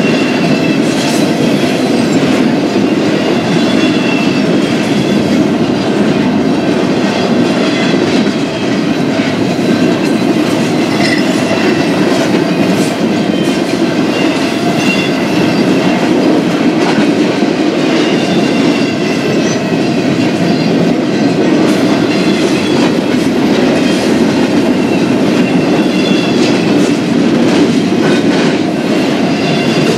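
Long freight train of intermodal stack cars rolling past, a steady heavy rumble of wheels on rail. Irregular clicks from wheels over rail joints and faint, intermittent high wheel squeals run through it.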